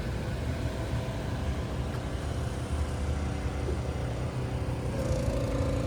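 Steady low rumble of a vehicle running in the background; a steady mid-pitched hum joins about five seconds in.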